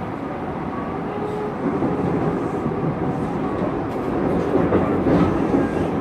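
Electric commuter train running on the rails, heard from inside the car, its rumble growing louder about a second and a half in.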